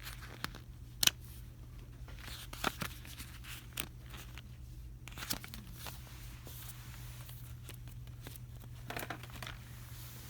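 Steady low hum of a store's ambience with scattered light clicks and knocks, the sharpest about a second in, plus a few soft rustles of handled items.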